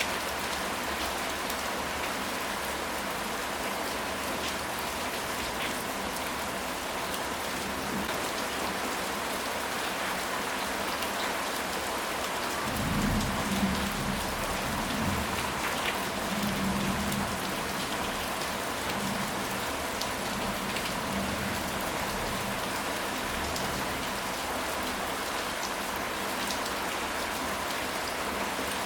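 Steady rain falling on a surface, with many fine drop ticks. About halfway through, a low rumble of thunder swells several times over four or five seconds.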